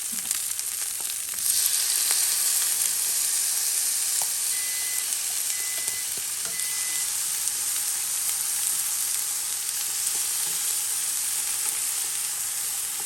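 Food sizzling as it fries in olive oil in a pan, the sizzle growing louder about a second and a half in. Around the middle come three short, high electronic beeps.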